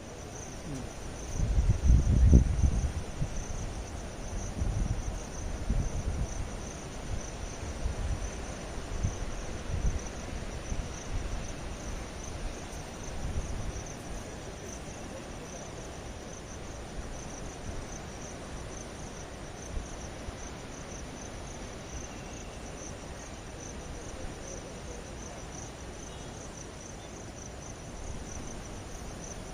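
Insects, crickets, chirring steadily in one high, rapidly pulsing note, over a low steady background. Loud low rumbles come and go through the first half, then fade out.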